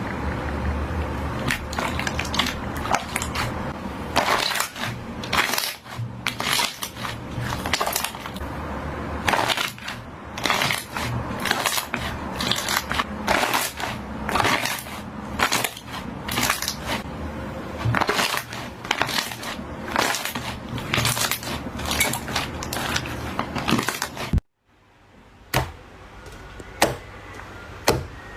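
Slime being squeezed and pressed by hand, giving a dense stream of crackling clicks and pops. About 24 seconds in it cuts off briefly, then sharper, more widely spaced clicks follow.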